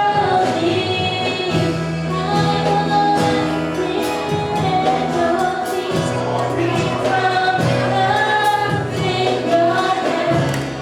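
Gospel music: several voices singing together in harmony over a band with bass and a steady drum beat.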